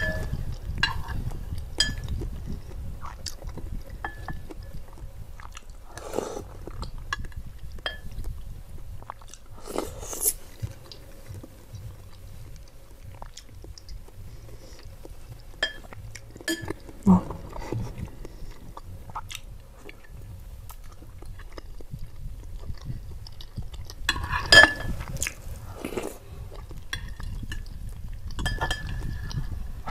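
Close-miked chewing of lontong sayur, soft rice cake and boiled egg in curry broth, with occasional sharp clinks of a metal spoon and fork against a glass bowl; the loudest clicks come about midway and again past two-thirds of the way through.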